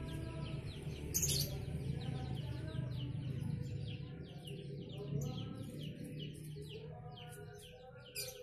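Small birds chirping in quick, repeated falling notes over a steady low hum that fades after about six seconds, with one sharp click about a second in.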